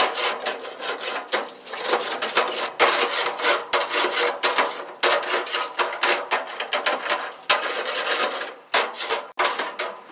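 Metal scraper tip of a wire grill brush scraping caked grime off a grill grate in quick, repeated strokes, with sharp knocks among them.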